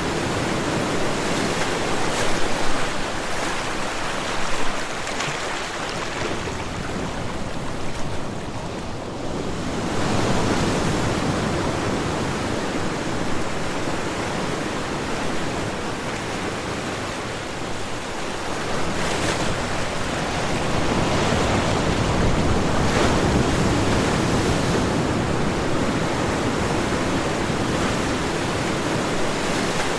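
Ocean waves breaking and washing on a shore, a continuous surf that swells and eases every several seconds, with a couple of louder crests early on.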